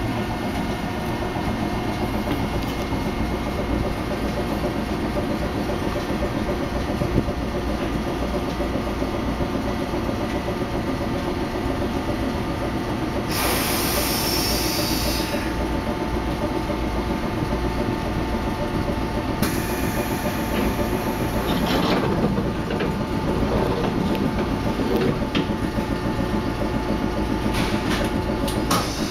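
An Eizan Electric Railway train standing at a station, its onboard machinery giving a steady low hum and rumble. Two brief bursts of hiss come about halfway through.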